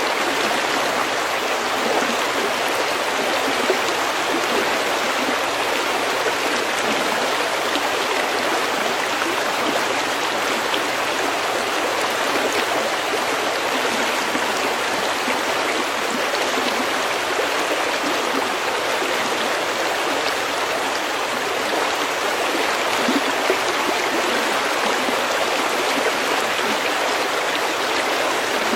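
Stream water running steadily over stones, a continuous babbling rush with small splashes and trickles.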